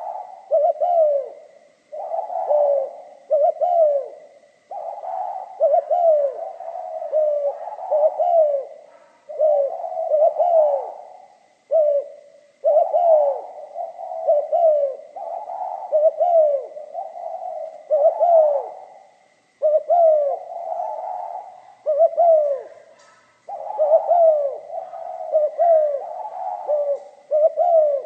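Spotted dove cooing over and over, in phrases of falling coos that come roughly every two seconds. It sings in the 'pha kim' (mixed metallic) voice type that Vietnamese dove keepers prize.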